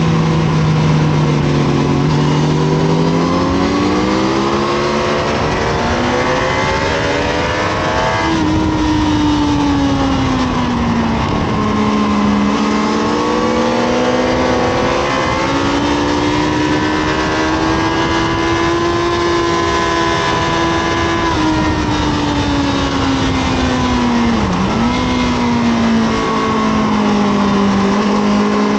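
Honda CBR1000RR's inline-four engine at racing speed, its pitch climbing and falling again and again, with sudden steps at the gear changes, over a steady rush of wind noise.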